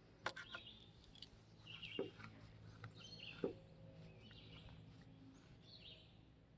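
Faint birdsong: short chirps repeating every second or so over quiet rural ambience, with a couple of soft taps.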